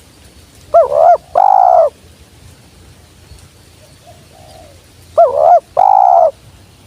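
Spotted dove cooing twice, about four seconds apart. Each call is a quick two-part note followed by a longer held coo.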